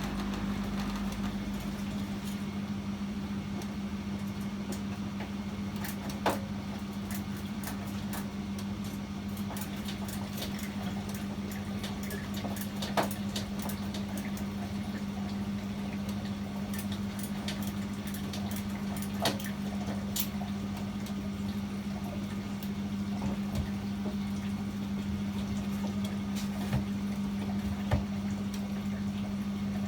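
Privileg 804 washing machine running with a steady hum. A lower rumble fades out about a second in, and a few sharp clicks or knocks come every several seconds.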